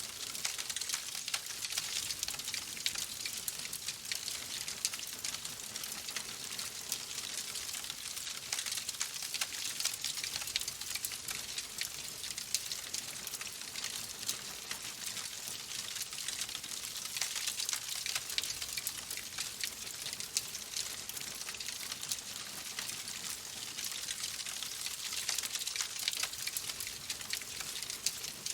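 Log fire crackling in a fireplace: a steady hiss dotted with many small pops and snaps.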